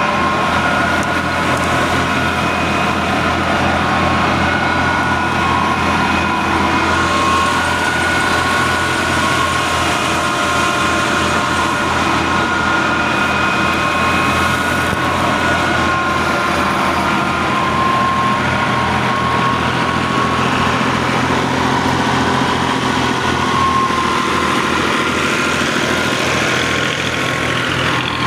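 Al-Ghazi tractor's diesel engine running steadily, working a wheat thresher, with a fast even beat underneath and a wavering high whine over it.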